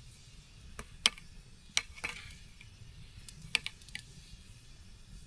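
Several sharp, irregular clicks and pops, with a brief scrape about two seconds in.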